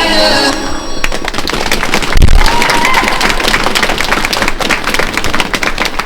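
Program music cuts off about half a second in and an arena audience breaks into steady applause, with a single low thump about two seconds in.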